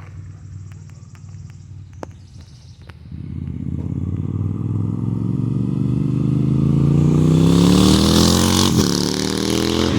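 A 2017 Moto Guzzi V9 Roamer's air-cooled V-twin, breathing through Mistral shorty mufflers with the baffles out, runs low and quiet at first. From about three seconds in it accelerates, rising steadily in pitch and getting louder. It is loudest near the end, with a brief break in the note about nine seconds in.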